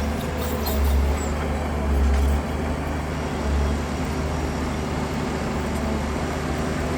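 Heavy diesel engine of earthmoving machinery running steadily, its low rumble swelling a few times as it works under load.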